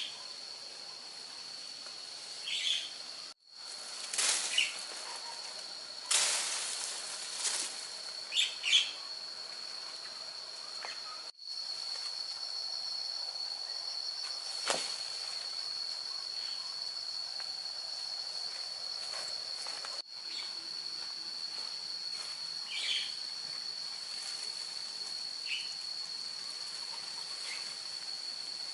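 Outdoor insect drone, a steady high-pitched buzz, with short bird chirps every few seconds. There are a few brief noisy sounds in the first half, and the sound drops out for a moment three times.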